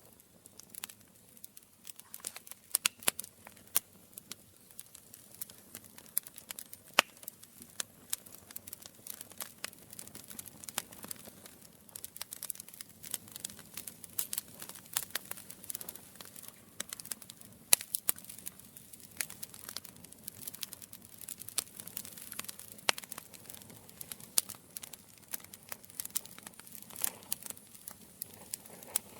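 Campfire burning, crackling and popping irregularly, with a few sharper, louder pops standing out among the small crackles.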